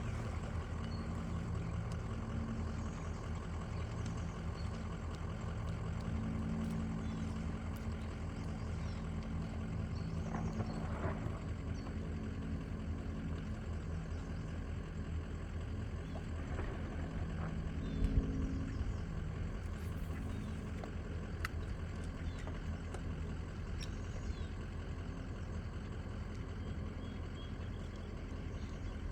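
An engine running steadily at an even, low speed, with a brief knock about eighteen seconds in.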